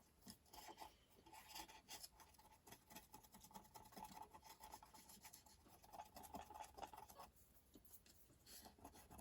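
Near silence with faint scratching and rubbing from small hand work on a circuit board, and a faint steady tone that stops about seven seconds in.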